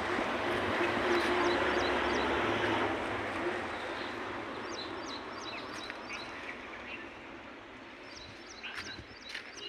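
Small birds chirping in quick repeated groups of short high notes, over a steady rushing noise that fades away after about three seconds.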